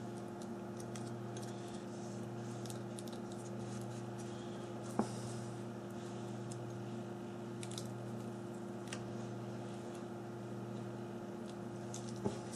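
Scattered faint clicks and ticks of small phone parts being handled during reassembly of a mobile phone, with one sharper click about five seconds in and another near the end, over a steady low electrical hum.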